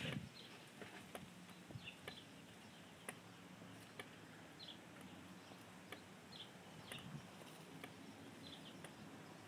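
Quiet outdoor ambience with faint, short bird chirps about once a second or two over a faint steady low hum.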